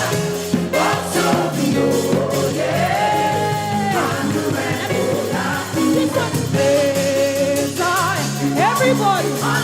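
Live gospel praise music: a voice singing long held notes that slide up and down over the band's steady bass and beat.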